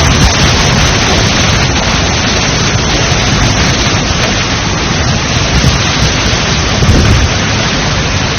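Violent storm wind and rain making a loud, steady rushing noise, buffeting the microphone in the low end.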